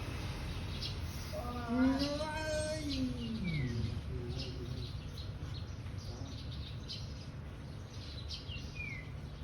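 Small bird chirping: a few short, quick falling chirps and repeated faint high ticks, over a steady low hum. About two seconds in, a drawn-out voice-like sound slides down in pitch for about two seconds.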